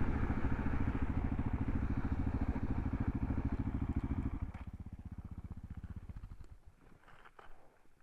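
Gas Gas ES 700's single-cylinder engine running at low speed as the bike slows. About halfway through, its sound drops sharply and dies away, leaving near quiet with a few faint ticks.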